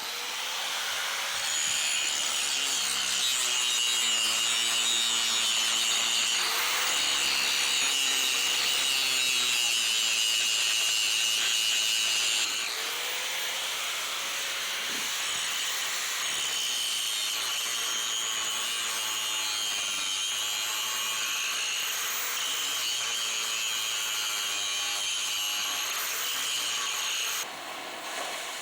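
Oxy-acetylene cutting torch hissing steadily as it cuts rivet heads down on a steel truck frame. It runs a little quieter from about halfway and shuts off just before the end.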